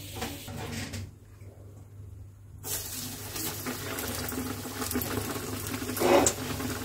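Batter-coated bread pakora deep-frying in hot oil in a kadai: a steady sizzle and bubbling that starts about a third of the way in, after a short near-silent gap, with a brief louder burst about six seconds in.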